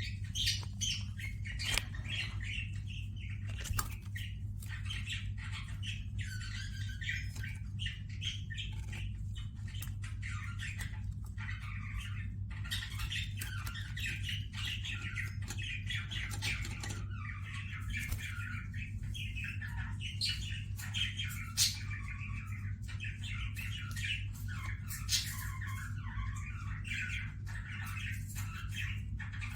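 Budgerigars and Gouldian finches chattering and chirping without pause, with a few sharp clicks, over a steady low hum.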